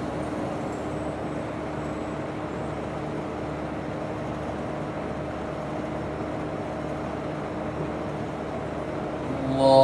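Steady hum and background noise of a mosque's sound system and room during a silent pause in the prayer. A man's chanting voice comes in near the end.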